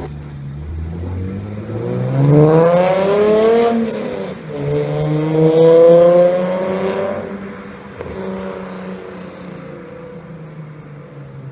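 A BMW E46 straight-six with straight-pipe exhaust (no catalysts, middle mufflers deleted) accelerating hard past, its note rising through one gear, dipping at a shift about four seconds in, and rising again through the next. It then settles into a quieter, steady drone as it moves away.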